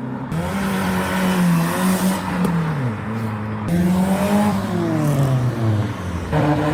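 Car engine revving as it pulls away, its note rising and falling several times.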